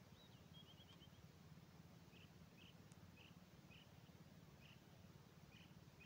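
Near silence at dusk with faint bird chirps: a quick trill about half a second in, then short high chirps repeated every half second or so from about two seconds in.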